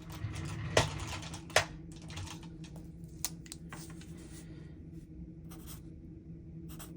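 Pen scratching across paper in short strokes, with two sharp taps about a second and a second and a half in, over a low steady hum.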